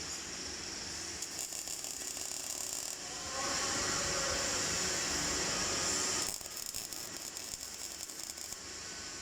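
MIG welding arc crackling in rapid bursts, steadier and louder for about three seconds in the middle, over a steady background hiss.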